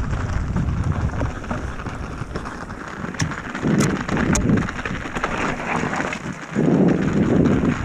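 Wind buffeting the action-camera microphone over the crunch and rattle of a mountain bike rolling along a rough trail. The rumble swells in rushes, with a few sharp clicks in the middle.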